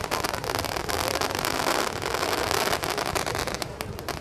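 Fireworks crackling and popping in a dense run of rapid small cracks over a steady hiss, easing off a little near the end.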